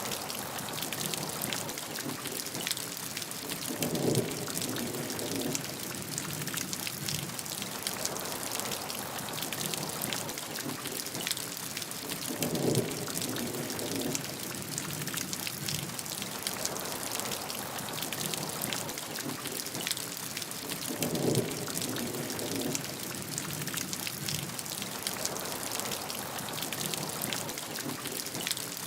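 Steady heavy rainfall, a dense hiss of many drops hitting a surface. Three times, about every eight to nine seconds, a deeper swell lasting a second or so rises over it.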